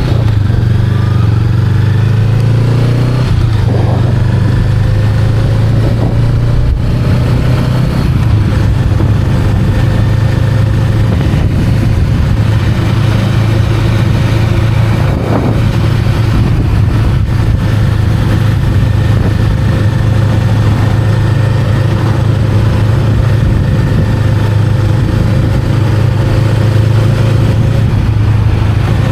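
Honda Rebel 500's parallel-twin engine running under way, its pitch shifting over the first several seconds and then holding steady at cruising speed.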